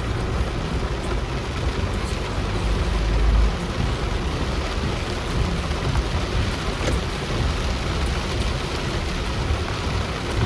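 Heavy rain falling while a vehicle drives through it: a steady hiss of rain and spray over a deep rumble of engine and road. The low rumble swells to its loudest about three seconds in.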